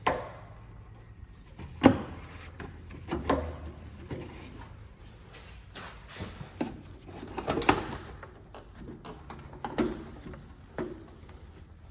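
Irregular knocks and clatter of tools and parts being handled during front shock absorber work, about half a dozen separate impacts with the sharpest about two seconds in.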